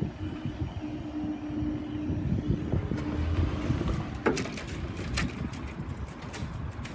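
InterCity 225 express train, a class 91 electric locomotive with a driving van trailer, passing over the level crossing at speed: a steady rumble of wheels on rail, with a run of sharp clicks in the second half.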